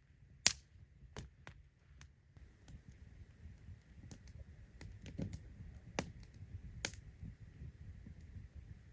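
Campfire crackling: scattered sharp pops at irregular intervals, the loudest about half a second in.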